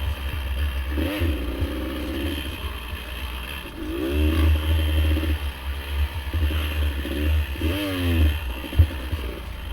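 Dirt bike engine revving up and easing off several times over a low rumble, with a sharp knock near the end.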